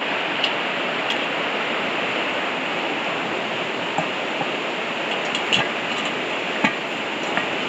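Creek running steadily, a continuous rush of water, with a few faint clicks scattered through it.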